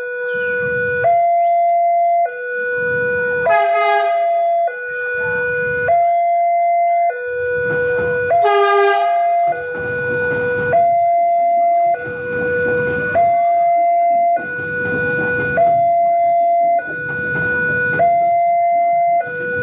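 Railway level-crossing warning alarm sounding a continuous two-tone hi-lo signal, each tone held a little over a second. Two short horn blasts sound over it, about 4 and 9 seconds in, with rumbling vehicle or train noise underneath.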